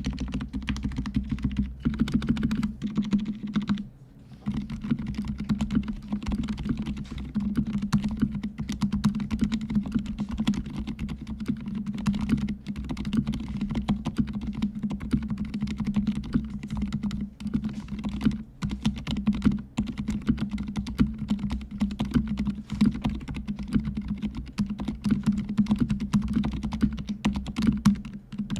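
Continuous fast typing on a fully lubricated mechanical keyboard with silent red (linear, dampened) switches. The keystrokes are dense and even, with a brief pause about four seconds in.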